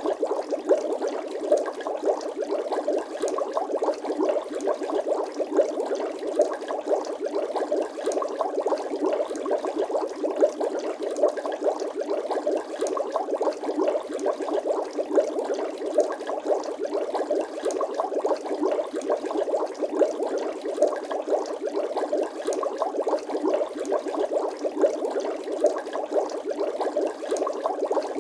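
Water bubbling: a dense, continuous stream of small bubble pops without a break.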